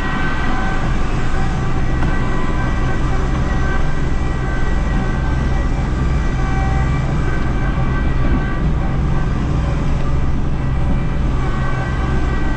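Kubota B2650 compact tractor's three-cylinder diesel engine running steadily under load as it pushes snow with the front loader bucket, with a steady whine on top.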